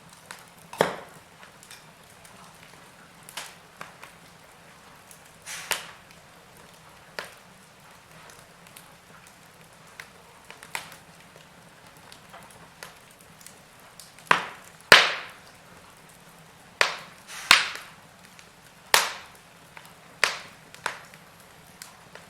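Wood fire crackling in a fireplace: irregular sharp pops and snaps, the loudest coming in a cluster about two-thirds of the way through, over a faint steady background.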